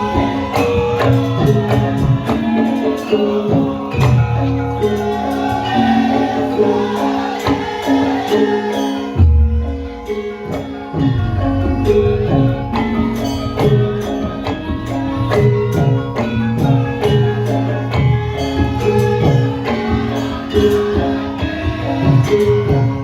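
Javanese gamelan music: struck metal keys play a repeating melody over drum strokes and jingling percussion.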